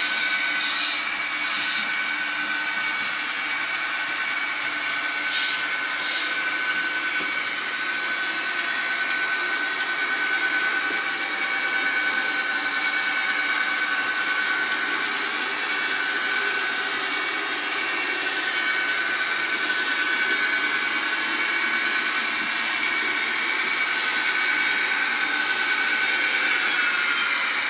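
Model train running on a layout: a steady mechanical whine, with five short hisses in the first six seconds and a shift in pitch near the end.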